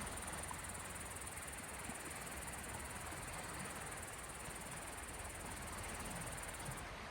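Small sea waves washing gently on the shore, a soft, steady wash of water, with a high thin hiss over it that stops near the end.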